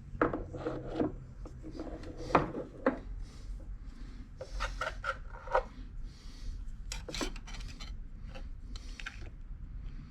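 A steel collet being turned over and reset in a machine vise: scattered clinks and knocks of metal on metal, a few short rings, and stretches of scraping and rubbing as the parts are slid into place.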